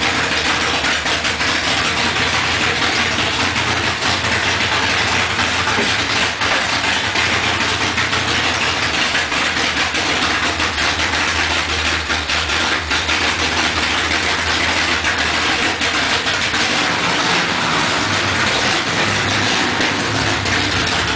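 1969 Dodge Charger's V8 engine idling steadily.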